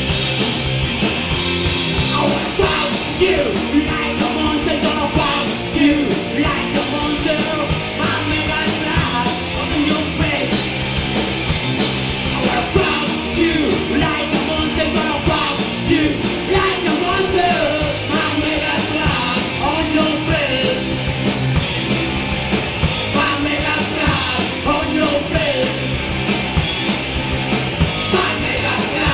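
Live punk rock band playing loud, with distorted electric guitars, bass, drums and a shouted lead vocal.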